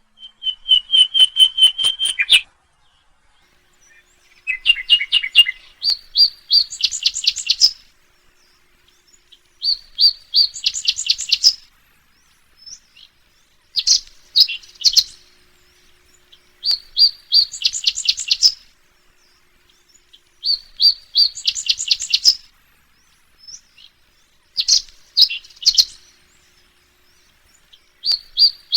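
A small songbird singing a short phrase of rapid chirping notes, repeated about seven times with short silent gaps between.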